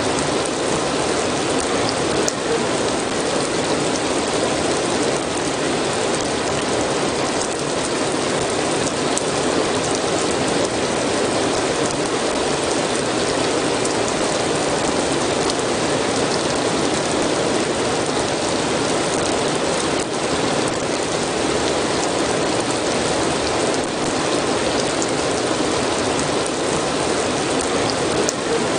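Steady rain falling: an even, unbroken wash of drops with a few faint ticks.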